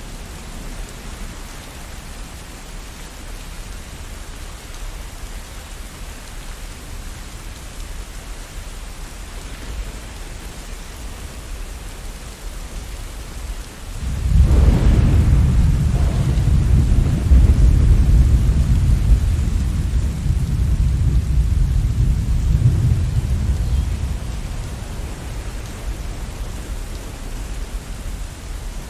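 Steady rain with a sudden low rumble of thunder about halfway through that rolls on for roughly ten seconds, then fades back to the rain.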